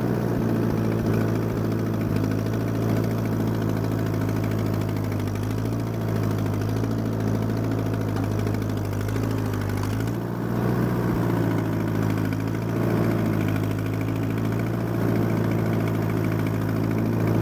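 Allis-Chalmers D14 tractor's four-cylinder engine running steadily while it pulls a back blade scraping snow, easing briefly about ten seconds in.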